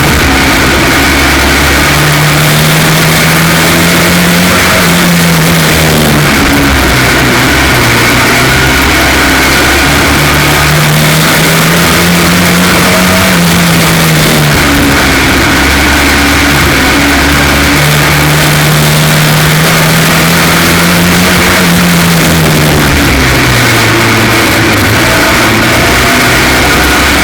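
F2 stock car engine running hard at racing speed, loud throughout, its pitch climbing and then dropping back in a regular cycle about every eight seconds. The engine is misfiring, a fault traced to a cracked spark plug.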